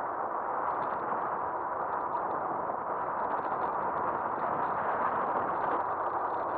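Steady rush of wind and road noise from an electric bike riding on pavement, heard through an action camera mounted on the bike's front end.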